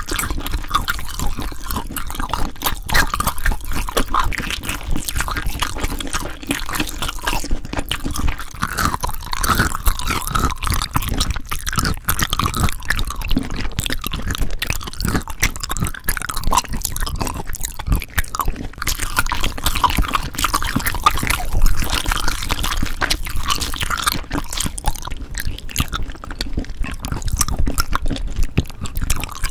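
Close-miked ASMR trigger sounds: a dense, continuous stream of small clicks and crackles with wet, squishy sounds.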